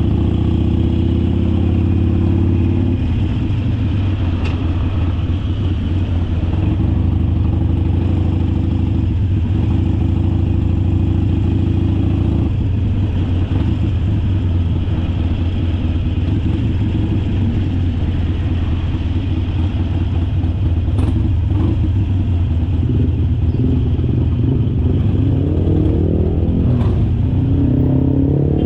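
Harley-Davidson Sportster Forty-Eight's 1200cc V-twin engine running steadily under way, its pitch rising near the end as it accelerates.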